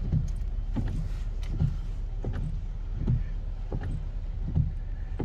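Heavy rain falling on a car, heard from inside the cabin as a steady hiss over a low engine rumble, with a soft knock repeating evenly about every three quarters of a second.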